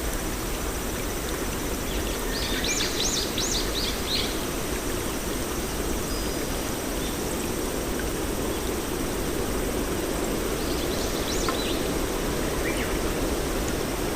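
A bird calling in two short runs of quick rising-and-falling notes, the first about two seconds in and the second near eleven seconds, over a steady rushing outdoor background noise.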